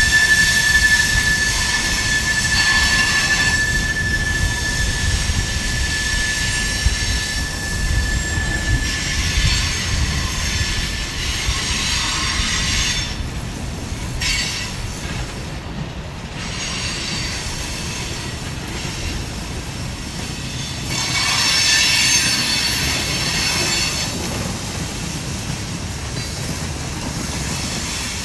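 Freight cars of a passing mixed freight train rolling by, wheels clattering steadily over the rail. A steady high wheel squeal runs for about the first nine seconds, then stops, and a brief spell of squealing returns about three-quarters of the way through.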